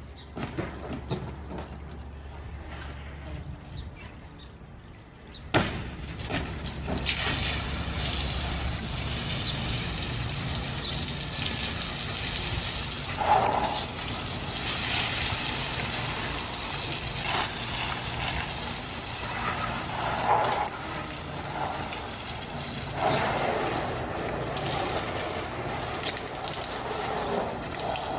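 A click, then a steady rush of water spraying that starts about five seconds in and keeps on, with a few brief swells.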